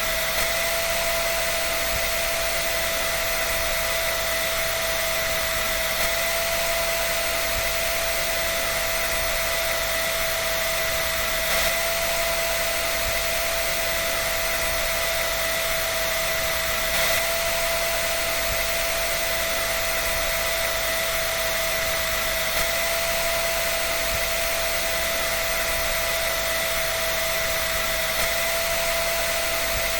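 Electric dryer running steadily: a constant airy hiss with a steady high whine over it.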